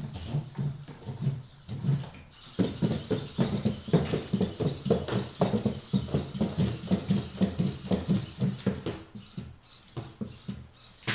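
Legged rescue robot walking, its feet tapping the arena floor in a rapid, irregular pattering of many small steps, with a thin hiss of motor noise above from about two seconds in.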